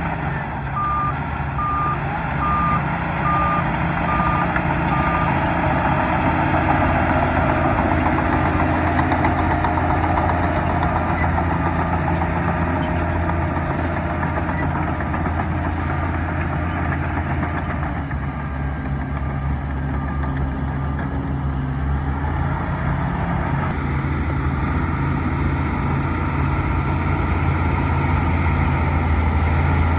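Bulldozer diesel engine running steadily under load while its reverse alarm beeps, a row of short even beeps at one pitch for the first few seconds, fainter again later on.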